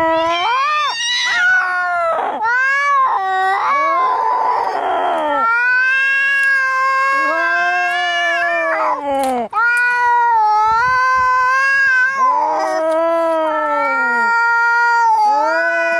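Cats yowling angrily as in a fight: a run of long, drawn-out wails that rise and fall in pitch, with a harsh noisy cry about four seconds in.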